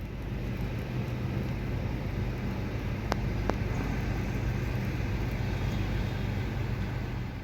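A 2009 Nissan Altima's engine running steadily under broad road and wind noise as the car drives, building over the first second. Two sharp clicks come about three seconds in, half a second apart.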